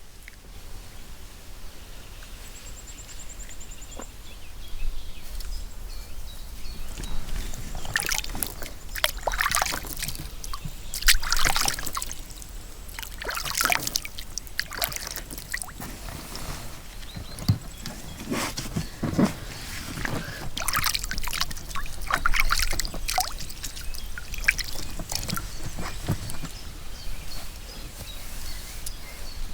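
River water splashing and sloshing in irregular bursts, starting about five seconds in, as in wading or swimming.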